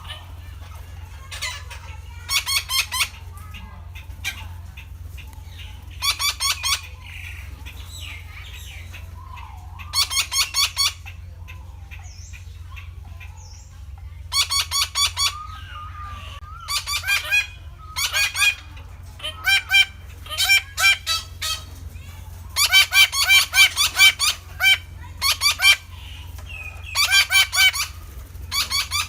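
Red-breasted parakeets calling in short bursts of quickly repeated notes, a new burst every few seconds, over a steady low hum.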